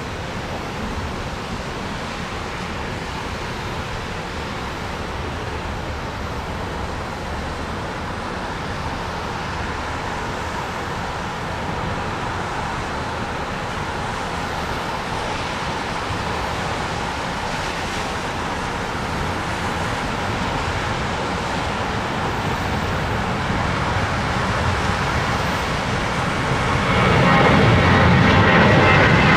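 Jet engines of a Boeing 737 on its takeoff run, CFM56 turbofans at takeoff power. A steady noise with no clear pitch grows gradually louder, then sharply louder near the end as the aircraft comes closer.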